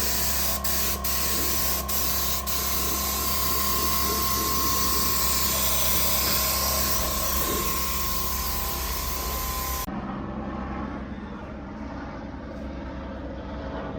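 Spray gun hissing steadily with a steady whine underneath, with a few sharp clicks in the first seconds. It cuts off abruptly about ten seconds in, leaving a lower steady hum.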